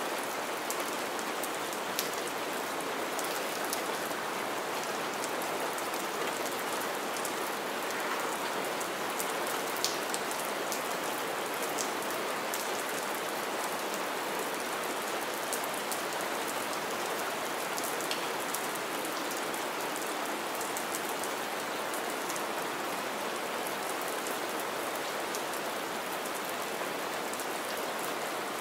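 Steady rain falling on wet ground and shallow puddles, with close drops splashing as sharp little ticks every so often.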